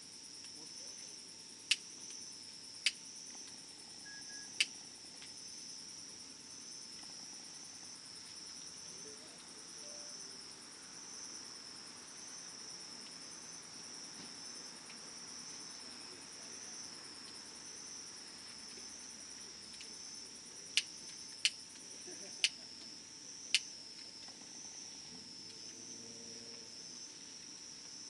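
A steady high insect trill runs throughout, with about seven sharp pops from the wood fire: three in the first five seconds and four more close together around twenty to twenty-four seconds in.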